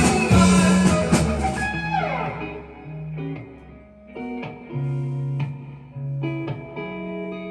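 Live band music: the full band stops about two seconds in, leaving an electric guitar with a note sliding down in pitch, then sparse picked notes and chords ringing out.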